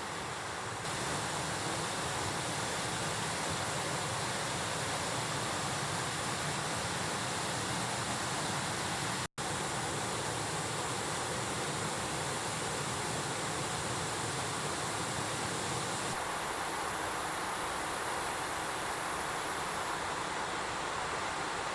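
Mountain stream rushing, a steady hiss of flowing water, with a momentary dropout about nine seconds in.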